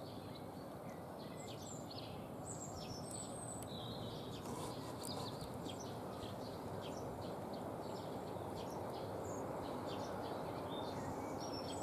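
Small songbirds chirping and calling in many short, high notes scattered throughout, over a steady background noise.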